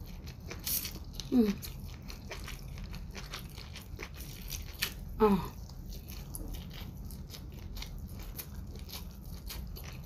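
Close-up chewing and biting of sushi rolls wrapped in seaweed, with many small wet mouth clicks and smacks. Twice, a short whine drops quickly in pitch and stands out above the chewing.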